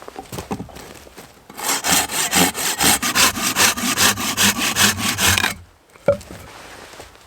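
Hand saw cutting wood in quick back-and-forth strokes, about three a second, which stop a little before the end. A single sharp knock follows soon after.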